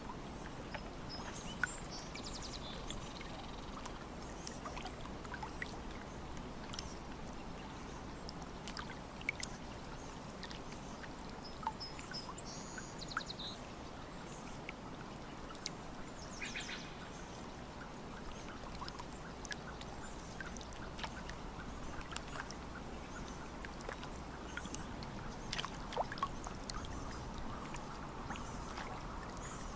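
Small waves lapping and splashing at a lake's edge, with many little clicks and drips over a steady wash of water. A few short bird calls come through near the middle.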